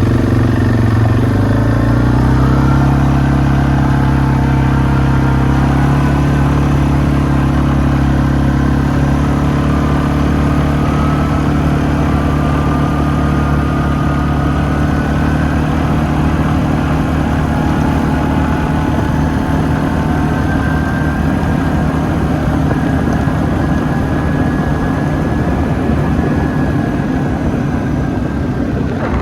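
ATV engine running under steady throttle, its pitch rising slightly over the first couple of seconds and then holding nearly constant, with rushing noise over it.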